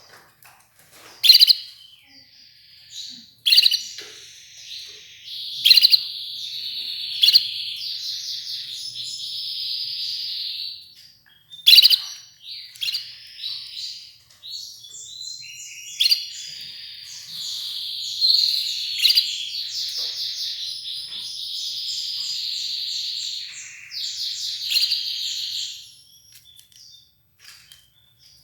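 Red ivory canary singing in two long bouts of rapid trills and rolling phrases, broken by loud sharp notes, with a short pause about 11 seconds in.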